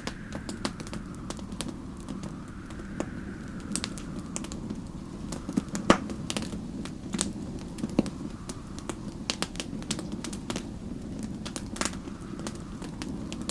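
Wood fire crackling with frequent irregular pops over a low steady rumble, one pop louder about six seconds in. Storm wind rises and falls in slow swells behind it.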